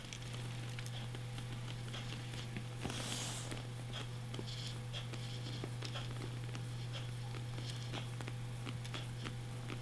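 Steady low electrical hum with faint scattered ticks and soft rustles, and a brief soft hiss about three seconds in.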